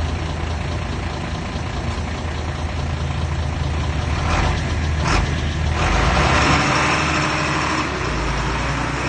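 Heavy truck or earthmover engine running steadily at idle, with two short bursts of noise about four and five seconds in and a louder rush of noise from about six to eight seconds in.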